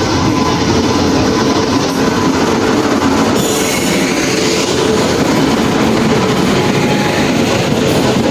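Pushpak Express running along the track: a loud, steady rumble of wheels on rails with clickety-clack. A brief higher-pitched burst of noise comes about three and a half seconds in.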